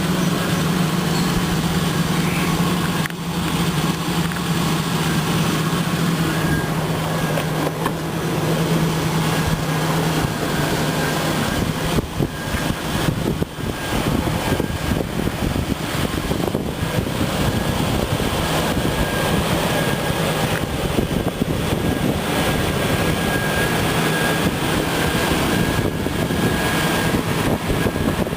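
Wind buffeting the microphone, over the steady idle of a 2003 Ford Ranger's 4.0-litre V6.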